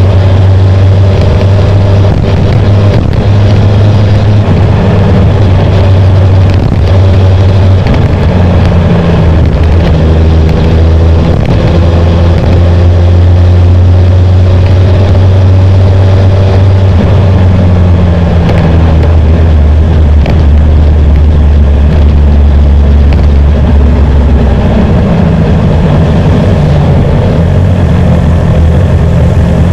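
BMW S1000R's inline-four engine running at low revs while riding, its pitch shifting up and down a few times with throttle and gears.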